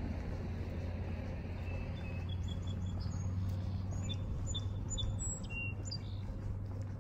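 Small birds chirping, a string of short high notes starting about two seconds in and thinning out near the end, over a steady low hum.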